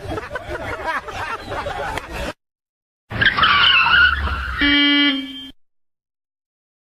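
Car tyres skidding and squealing over engine rumble, ending in a steady pitched tone under a second long. This comes between abrupt cuts to silence, after a stretch of background voices and vehicle noise.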